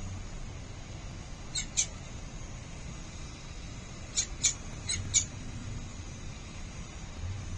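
Falcon calls: short, high-pitched cries, two in quick succession, then four more about two and a half seconds later, over a steady low background rumble.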